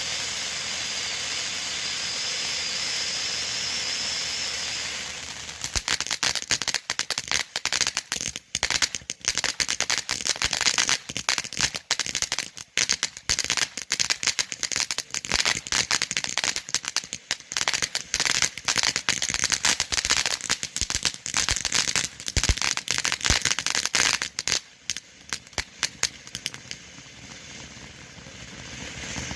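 Phantom Fireworks Komodo 3000 fountain burning. A steady hiss with a high whistle runs for about five seconds, then a dense run of crackling pops follows for about twenty seconds. The pops thin out near the end into a quieter hiss.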